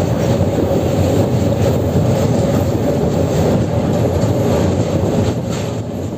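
Passenger train running at speed: a steady, loud rumble and rattle of the coach on the track, with a faint steady hum over it.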